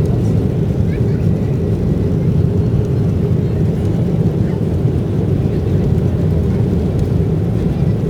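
Boeing 737-800 heard from inside the cabin: the engines and airflow make a steady, loud low rumble that does not change.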